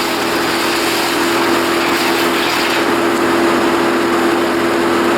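A small engine running steadily at a constant pitch, under a loud, even hiss.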